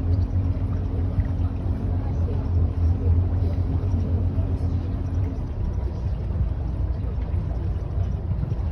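River tour boat's engine running steadily with a strong low hum under a rushing noise. A steady higher tone drops out about five seconds in.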